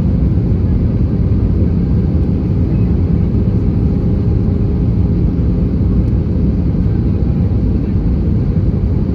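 Cabin noise inside an Airbus A320-214: a steady, loud rumble of its CFM56 jet engines and the airflow over the fuselage, with faint steady hums in it.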